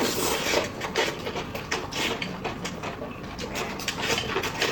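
Close-up eating sounds: rapid wet clicks and smacks of chewing, with light clinks of utensils against dishes.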